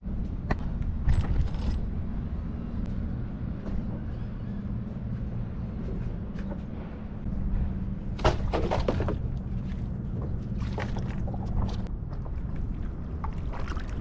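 Stand-up paddleboard paddle strokes splashing in the water, a few separate splashes, the longest about two-thirds of the way through, over a steady low rumble and wind on the microphone.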